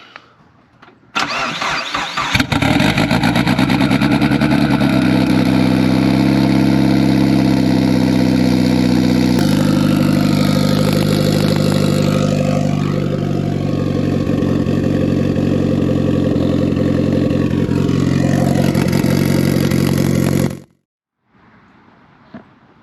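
Mitsubishi Lancer Evolution's turbocharged four-cylinder on a cold start: the starter cranks for about a second, then the engine catches and settles into a loud, steady fast idle. The idle drops a step about seven seconds later, and the sound cuts off abruptly near the end.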